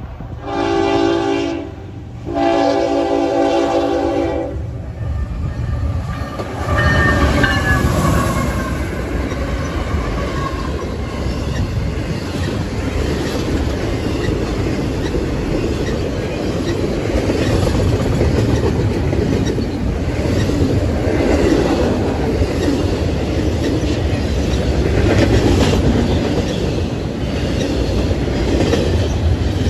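Norfolk Southern freight locomotive's air horn sounding two long blasts over the first four seconds. Then the locomotives and a long double-stack intermodal freight train roll past close by, a loud, steady rumble of wheels on rails.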